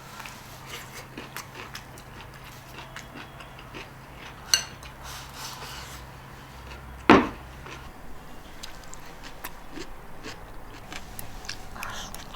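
Tableware at a meal: small clicks and taps of chopsticks against bowls and plates, with two sharper knocks about four and a half and seven seconds in, the second the loudest and ringing briefly. A low hum runs underneath and stops about eight seconds in.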